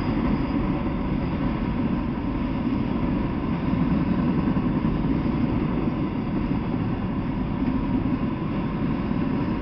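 Freight train of autorack cars rolling past, its wheels on the rails making a steady, unbroken noise.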